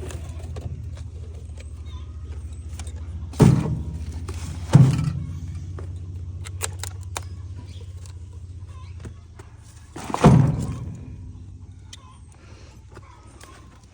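A vehicle engine idling with a steady low hum that fades away about two-thirds through, broken by three heavy thumps, the first two a second and a half apart and the third several seconds later, with a few light clicks between them.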